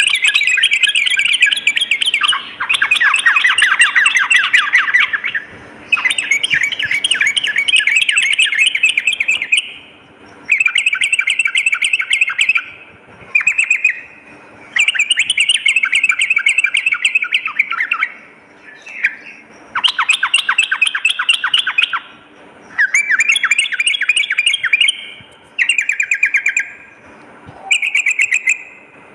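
Yellow-vented bulbul (trucukan) singing: rapid chattering phrases of quick repeated notes, each one to four seconds long, separated by short pauses.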